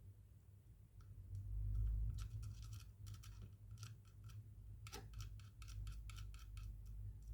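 Quick runs of light metallic clicks and ticks from small hand tools and parts: a precision screwdriver and its bits, and tiny phone screws being handled, starting about two seconds in, with one louder click near the middle.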